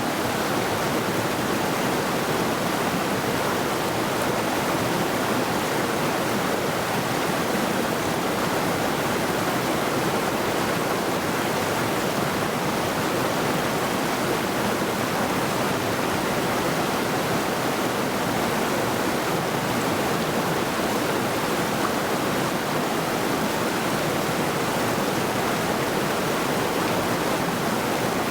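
Mountain river rushing over rocks: a steady, unbroken water roar with no other sounds standing out.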